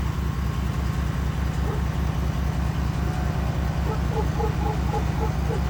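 An engine idling with a steady, evenly pulsing low throb. A faint series of short chirps comes in over it near the end.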